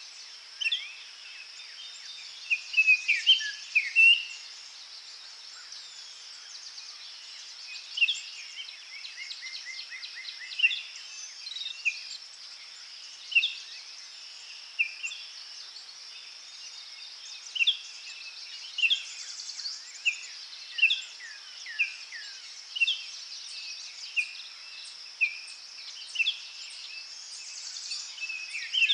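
Forest birds singing and calling in short chirps, a busy burst of loud notes about three seconds in, then single calls every second or so, over a steady high insect drone.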